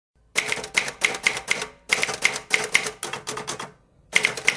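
Rapid sharp mechanical clacks in quick runs of about three to four strikes a second, broken by two short pauses.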